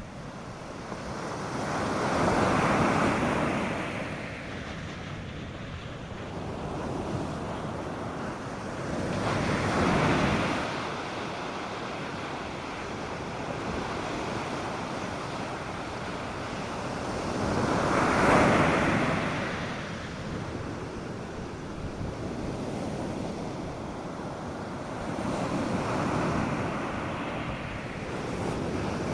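North Sea surf breaking on a beach: four waves rush in and fade away, one about every eight seconds, over a steady wash of water.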